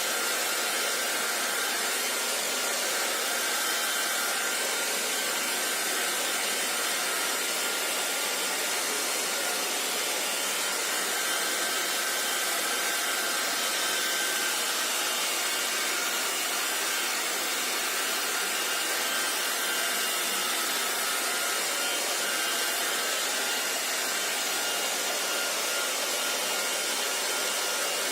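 Hair dryer running steadily: an even rush of blown air with a faint high whine from its motor.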